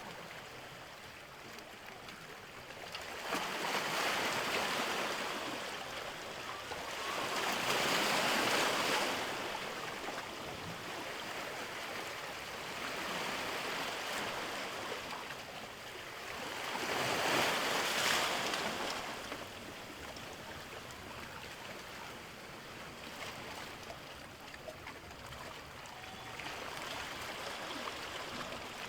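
Sea waves washing in, the sound of surf swelling and fading in surges every few seconds, about five in all, with two stronger ones near the middle.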